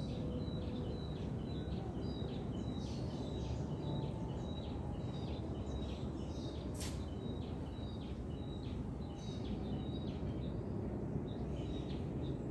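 Outdoor ambience: a steady low background noise with a bird chirping repeatedly, short high notes about two to three a second. One sharp click about seven seconds in.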